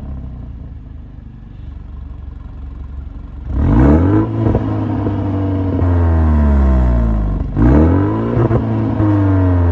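2022 BMW 230i's turbocharged four-cylinder engine through an M Performance exhaust, idling and then revved sharply about three and a half seconds in. The revs sink back slowly, then it is blipped again near the end.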